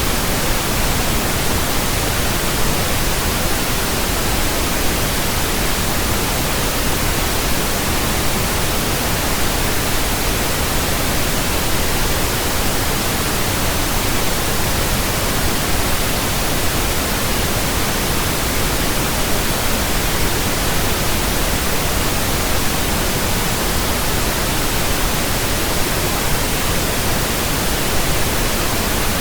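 Steady pink noise test signal from a pink noise generator, an even full-range hiss with no change or break, played as a burn-in track for new speakers and earphones.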